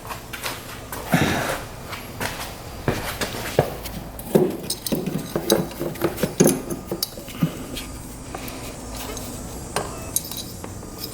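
Irregular metallic clinks and knocks as the cylinder head is worked loose and lifted off a 1985 Yamaha 225DX engine, metal parts bumping against each other. The clinks come thick for the first seven seconds or so, then fall off to a few.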